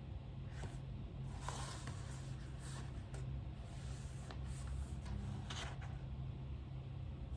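Faint scratching and rustling of pen and paper at a study desk, in a few short spells, over a low steady room hum.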